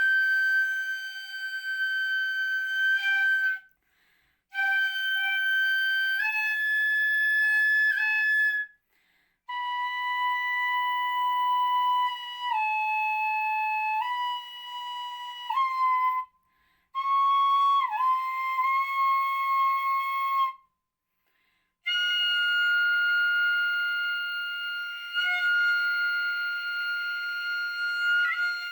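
Solo ryūteki, the Japanese gagaku bamboo transverse flute, playing a slow melody of long held notes that step from pitch to pitch, with a few bent, ornamented notes. Phrases break off into short silences for breath, about every four to eight seconds.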